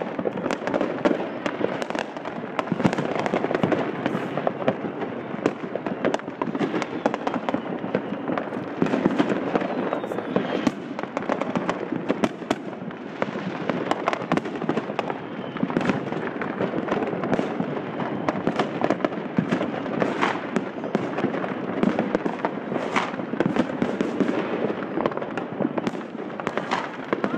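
Many fireworks and firecrackers going off at once: a continuous din of overlapping bangs, pops and crackles with no pause.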